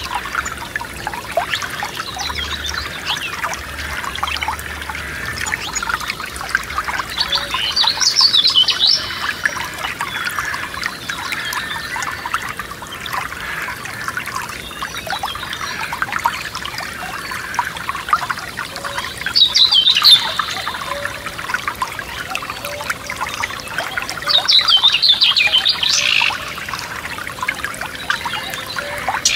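Forest stream trickling and gurgling over stones, with a bird singing short bright phrases three times over it.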